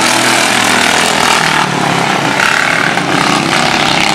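Several racing lawn mowers' engines running together at speed, a loud steady drone with engine pitches shifting as they lap the track.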